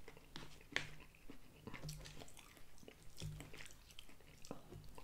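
A man chewing a mouthful of green beans, with faint wet mouth sounds and scattered soft clicks.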